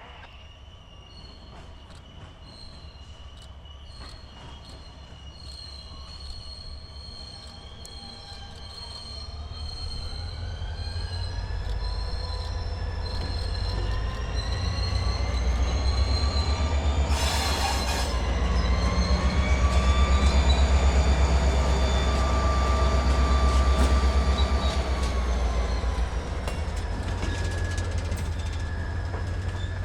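Diesel-electric freight locomotive throttling up as it approaches: a deep engine rumble grows louder, and its whine rises in pitch about ten seconds in and drops back near the end. A brief loud burst of noise cuts through just past the halfway point.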